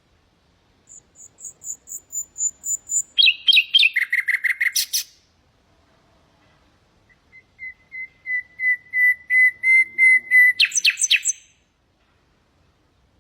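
Common nightingale singing two phrases. The first is a run of high repeated notes that drops into faster, lower notes. The second is a long series of evenly repeated notes that swells steadily louder and ends in a quick rattle.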